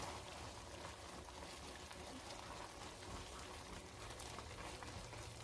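Faint, steady sizzling and bubbling of food cooking in a pan, with small crackles throughout.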